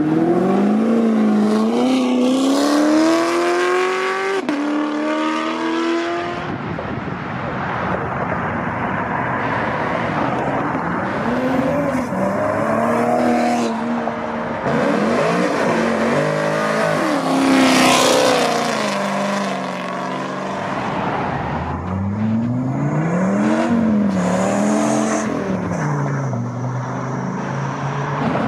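Performance cars accelerating away one after another, each engine note rising in pitch and dropping back at quick gear changes. There is a hard pull with two up-shifts in the first few seconds, then several more revving passes.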